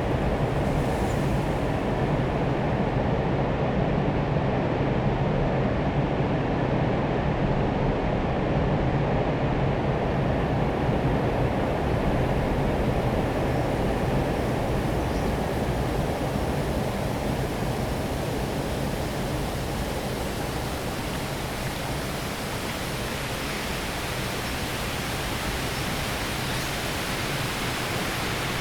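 Large waterfall: a steady, dense rush of falling water, heaviest in the low and middle range. In the last third it turns slightly hissier and brighter.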